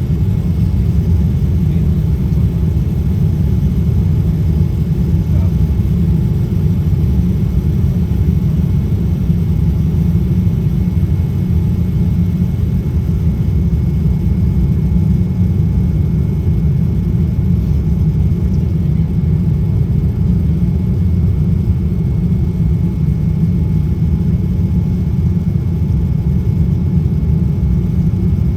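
Steady low rumble of a Boeing 787 airliner heard from inside the passenger cabin in flight: engine and airflow noise with no sudden events.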